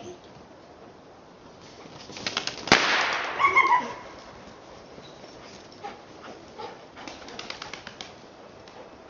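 A pigeon flushes with a rapid clatter of wingbeats, and a single shotgun shot cracks out about two and a half seconds in, the loudest sound. Short pitched cries follow, and more wing flapping comes near the end.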